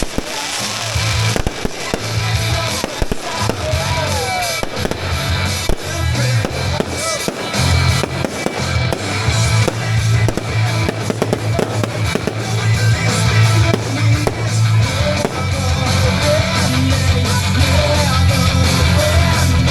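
Fireworks going off in quick succession, many sharp cracks and crackles, over loud music with a heavy bass line.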